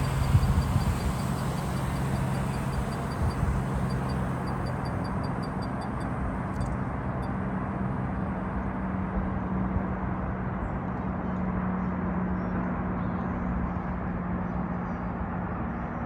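Steady outdoor rumble and hiss, the kind of wind and distant traffic noise heard from a hilltop, with a low steady hum that steps up in pitch about eight seconds in.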